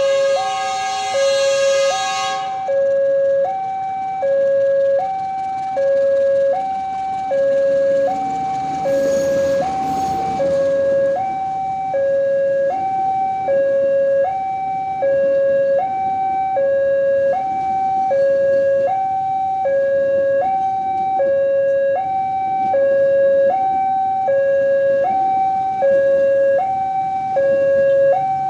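Indonesian railway level-crossing warning alarm (the 'neng-nong') sounding its two alternating tones, high then low, about once a second over and over: the signal that a train is approaching and the barrier is down. A loud horn sounds over it for the first couple of seconds.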